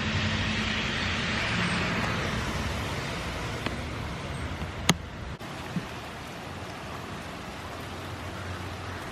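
Steady rain, with the hiss of traffic on a wet road that is louder for the first two seconds and then fades. A few short sharp clicks, the loudest about five seconds in.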